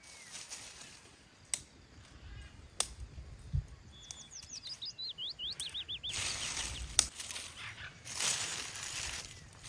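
A bird calls about four seconds in, a quick run of falling whistled notes lasting about two seconds. Around it are gusts of wind noise and a few sharp clicks.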